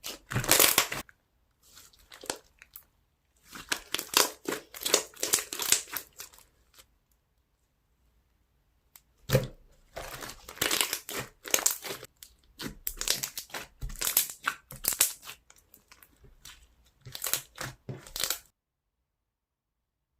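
Slime being squished and stretched by hand, making dense crackling and popping clicks. The sound comes in several bouts with short pauses and cuts off suddenly near the end.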